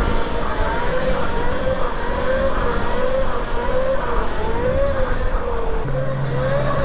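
Electric dirt bike's motor whining while riding, its pitch wavering up and down with the throttle, over steady wind rumble on the microphone.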